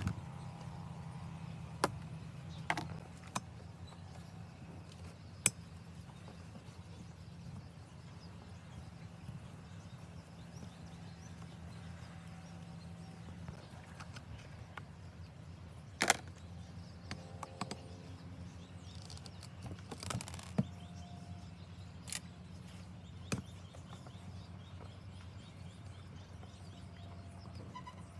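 Scattered sharp clicks and knocks, about a dozen, the loudest about two, five and sixteen seconds in, over a steady low hum.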